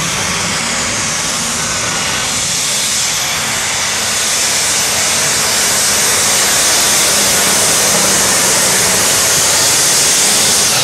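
Competition pulling tractor running flat out under load down the track: a loud, even rushing roar that builds slightly partway through.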